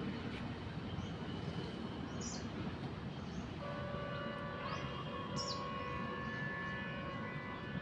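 A bird giving short, high, falling chirps, about three of them a few seconds apart, over a steady hiss of background noise. Partway through, a few steady held tones come in beneath the chirps.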